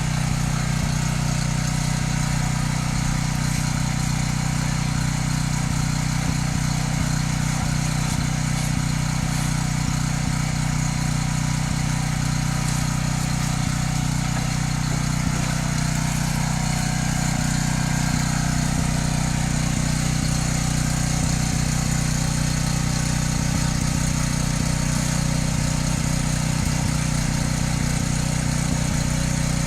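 An engine running steadily at a constant speed, a continuous low drone with no changes in speed.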